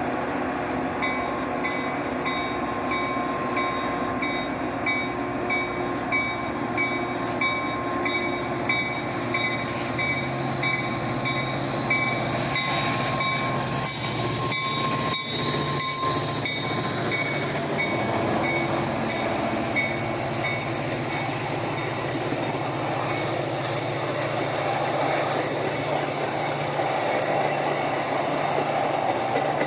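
Train passing, with a low steady engine hum. A ringing signal repeats about twice a second and stops about halfway through, leaving the noisier rolling of the train.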